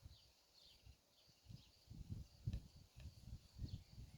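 Faint birdsong: short, falling, high chirps repeating several times a second. From about a second and a half in, irregular low rumbling bursts come through louder.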